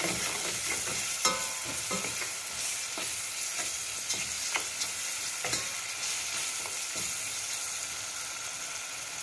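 Sliced onions, green chillies and curry leaves sizzling steadily in hot oil in a stainless steel pot. A metal spoon stirs them, scraping and clicking against the pot a handful of times.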